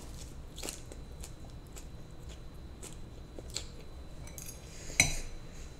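Chewing a mouthful of lettuce salad with bacon: soft, irregular crisp crunches and mouth clicks, with a single sharp click about five seconds in.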